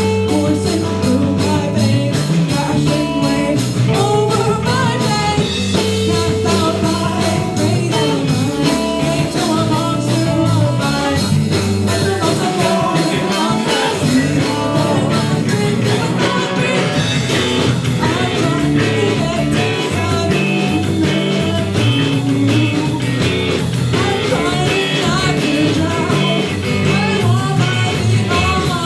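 Live rock band playing a song at full volume: guitar over a steady bass line and a drum beat.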